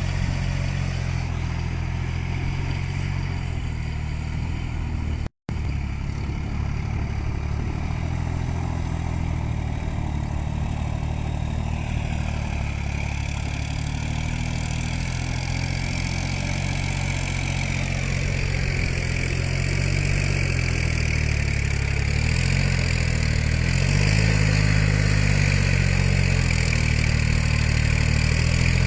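New Holland 47 hp tractor's diesel engine running steadily on a field trial run. From about two-thirds of the way in, its pitch wavers up and down and it grows a little louder. The sound cuts out completely for a split second about five seconds in.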